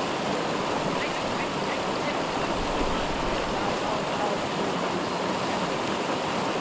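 Steady rushing of river water, an even noise that does not let up.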